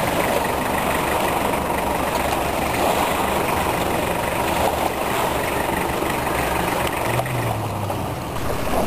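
An engine idling steadily, with a brief low hum rising over it near the end.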